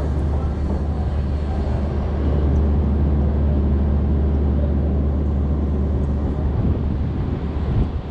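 Heavy crane's engine running steadily as the crane slews under load, a continuous low rumble, with wind buffeting the microphone.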